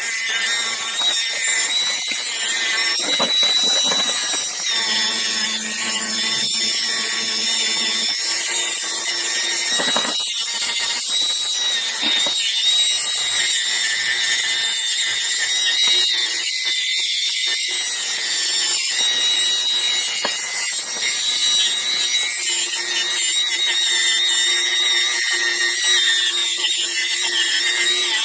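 Dremel rotary tool spinning a fiber wheel against the steel of a pair of grooved pliers, scrubbing off rust and grime: a steady high-pitched whine with a grinding hiss.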